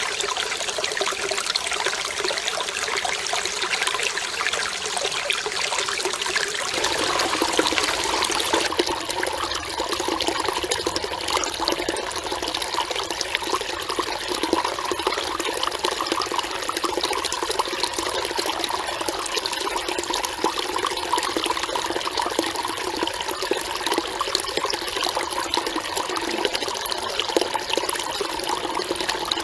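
Mountain valley stream running over rocks: a steady babbling, rushing flow of water. The sound changes character about seven seconds in, then runs on evenly.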